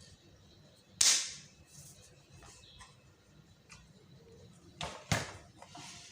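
A few sharp clicks and taps of small hard objects being handled: one strong tap about a second in that rings briefly, then two lighter ones close together near the end.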